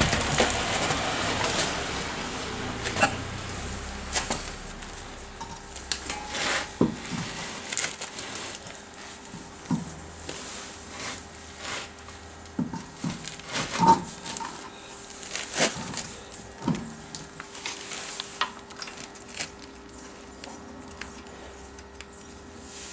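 Irregular clicks and knocks of hand-tool and metal-part handling, with a rushing noise in the first few seconds and a faint steady hum from about six seconds in.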